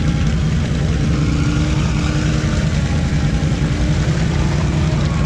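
ATV engine running at fairly steady revs, with small drifts in pitch.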